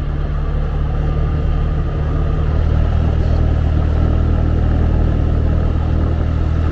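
A 125 cc motorbike engine running steadily under load on a mountain climb, with wind rushing over the rider's microphone.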